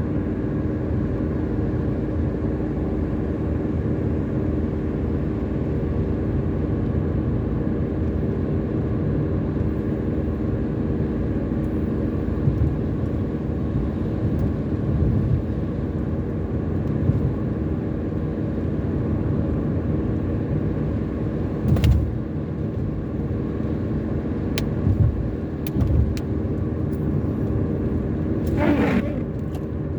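Steady car-cabin noise while cruising on a highway: engine hum and tyre-on-road rumble, with a few brief knocks about two-thirds of the way through.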